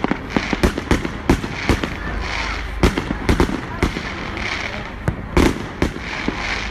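Fireworks bursting in the sky: an irregular run of sharp bangs, two or three a second, over a steady background crackle. The loudest bangs come about three seconds in and again past five seconds.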